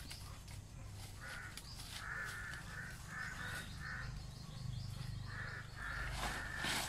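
A bird calling in runs of short repeated calls, several a second, starting about a second in.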